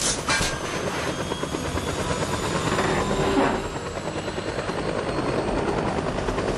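Helicopter rotor beating steadily in a fast, even chop, with the noise swelling briefly about halfway through.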